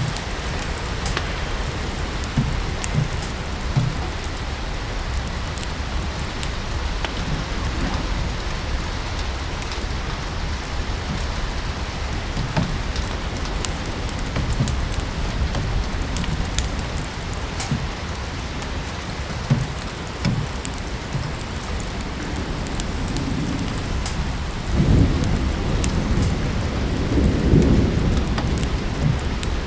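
Steady rain with scattered sharp crackles from a wood fire. A low roll of thunder comes in near the end.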